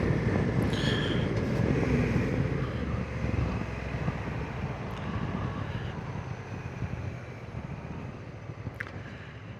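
Honda NT1100 motorcycle riding along, its engine and wind making a steady low rumble that gradually fades away.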